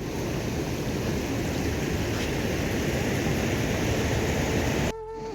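Steady rushing noise of heavy rain that cuts off suddenly near the end.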